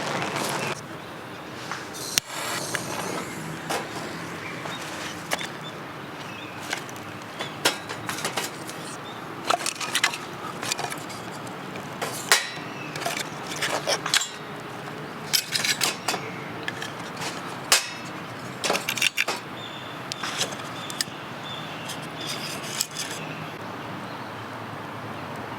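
Camping gear being handled: irregular light clinks and clacks of metal and hard objects, over a steady hiss of rain.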